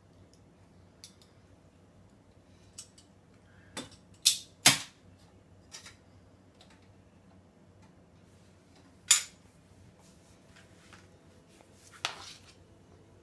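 Dishes and cutlery clinking and clacking as they are handled and set into a dishwasher: a scattering of sharp clinks, the loudest a quick pair about four seconds in, with single loud ones near nine and twelve seconds.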